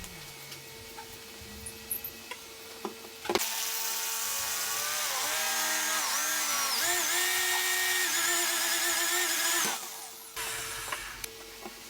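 Jigsaw cutting wood: the saw starts about a third of the way in, runs for some six seconds with its motor whine wavering in pitch, and stops shortly before the end. A few light clicks come before it.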